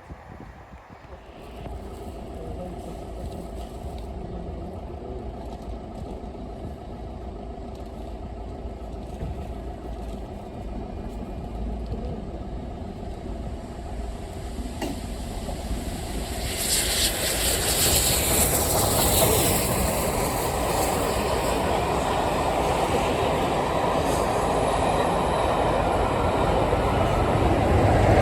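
A diesel train approaching and passing, its engine drone growing steadily louder. From about halfway in, the clatter and hiss of wheels on rail join in and stay loud to the end.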